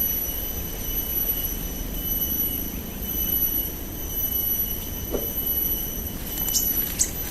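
A steady high-pitched whine held at one pitch, over low rumbling noise, with a few brief chirps near the end.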